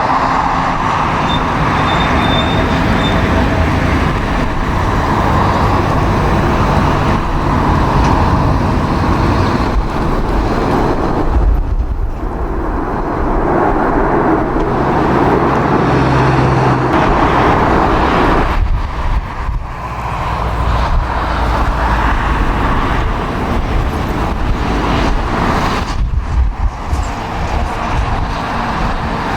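Loud, continuous rushing of jet airliner engines and strong wind, sped up in a time-lapse, with several sudden drops and swells.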